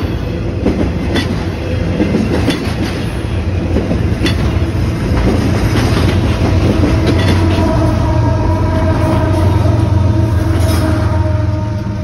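Intermodal freight train passing close, its trailer-carrying cars' wheels clicking over the rail joints. About halfway through, diesel locomotives coupled in the train go by, their engines running with a steady hum.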